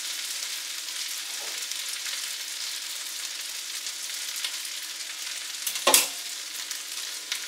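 Spaghetti and noodles frying in a wok over a low gas flame, with a steady sizzle. About six seconds in comes one sharp clink of a utensil against the wok.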